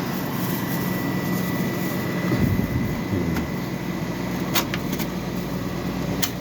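Westinghouse Mobile Aire 5000 window air conditioner running on high cool: a steady fan rush over a motor hum. A deeper hum comes in a little over two seconds in, and two sharp clicks sound near the end.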